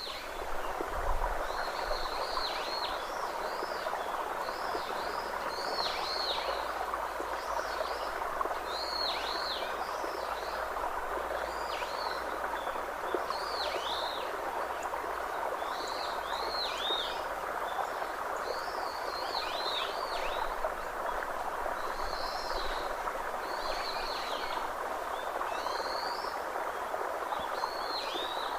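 A bird calling over and over in short, high, arched chirps, about one a second and sometimes in pairs, over a steady rushing background like running water.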